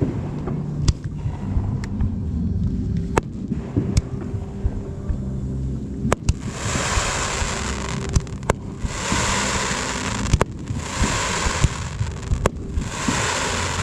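Fireworks display: sharp bangs of shells bursting, over a music soundtrack. From about halfway, four long hissing bursts follow one after another.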